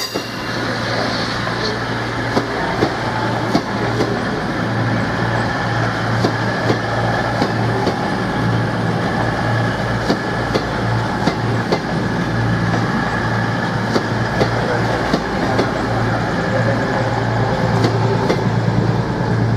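Class 47 diesel locomotive's Sulzer V12 engine running with a steady, pulsing low drone, with frequent short sharp clicks over it.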